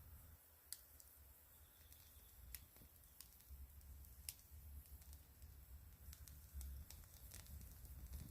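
Wood fire crackling faintly, with scattered sharp pops about a second apart over a low rumble.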